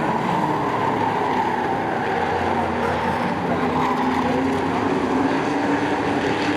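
Several short-track race trucks running at speed around the oval. Their engines blend into a steady drone whose pitch drifts slowly up and down as the field circles.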